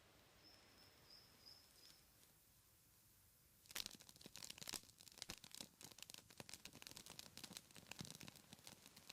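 Wood campfire crackling: irregular sharp snaps and pops that begin about three and a half seconds in, after near silence. The fire is a tiered Apollo-style log fire burning with almost no smoke.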